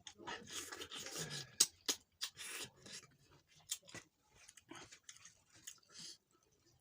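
Close-miked eating sounds: food being chewed and crunched, with irregular noisy bursts and scattered sharp clicks.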